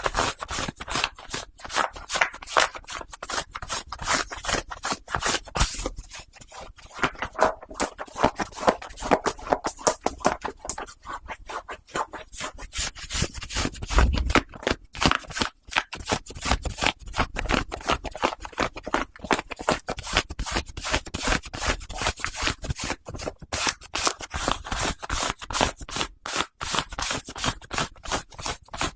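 White cotton socks rubbed, scratched and handled close to the microphones: a rapid, irregular run of crackly, scratchy rustling strokes.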